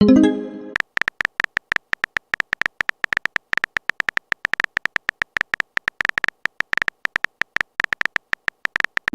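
Texting-app sound effects: a message-alert tone that fades within the first second, then a long run of short, sharp electronic typing blips, several a second at an uneven pace, with a quick rising swoosh at the very end as a message is sent.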